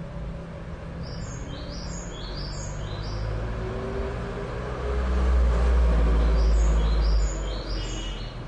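A small bird chirping in two quick runs of short, falling notes, over a low rumble like a motor vehicle's that swells for about two seconds in the middle.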